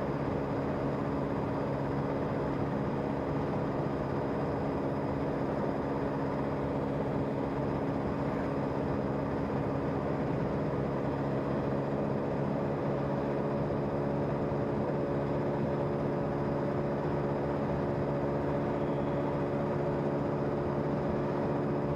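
Motor scooter's engine running steadily at cruising speed, an even hum under wind and road noise.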